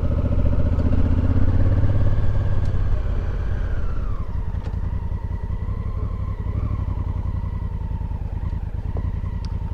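Motorcycle engine running while riding; about four seconds in the engine note falls as the bike slows, then it runs on at a lower, steady pitch.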